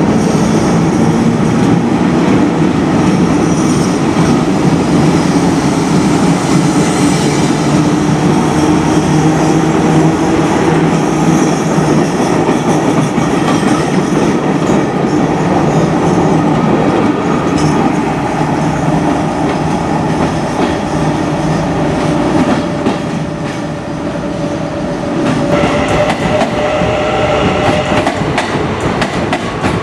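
A train running past on the rails, loud and steady, its wheels clattering over the track. Some steady higher tones come in near the end.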